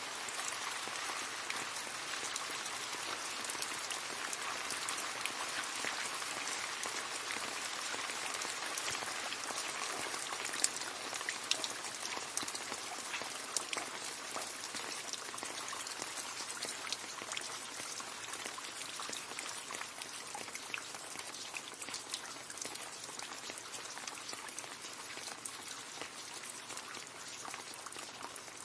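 Rain falling steadily into a puddle, a constant hiss with individual drops splashing and pattering, a few louder splashes about ten to fourteen seconds in, easing slightly toward the end.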